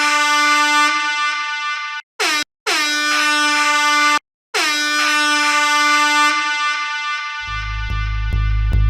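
DJ air-horn sound effect blasting four times in a row, a long blast, a very short one, a medium one, then a long one that slowly fades. Each blast dips slightly in pitch as it starts. Near the end, a heavy bass line with a pulsing beat comes in.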